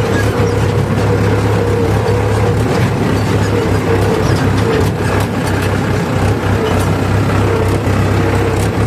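A tractor's diesel engine running steadily with a deep, even hum.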